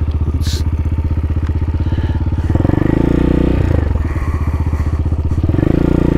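CSC TT250's single-cylinder four-stroke engine idling with an even pulse, a short click about half a second in, then picking up revs about two and a half seconds in as the bike moves off and turns. It eases briefly and pulls again near the end.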